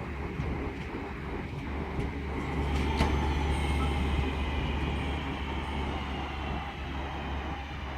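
Class 323 electric multiple unit moving at the station: a low rumble with a faint high whine, growing louder to a peak about three seconds in and then easing off.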